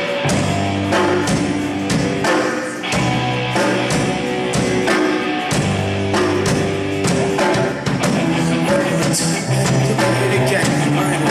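Rock band playing live with a singer, drums and cymbals hitting steadily under sustained bass and guitar notes, in a rough, poor-quality recording.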